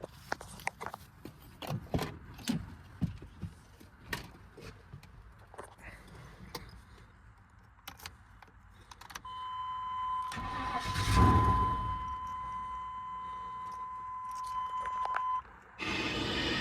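Keys jangling and clicking at a 1999 Chevy Tahoe, then a steady chime tone sounds for about six seconds with a loud rush partway through. Near the end the truck's 5.7-litre Vortec V8 starts and runs.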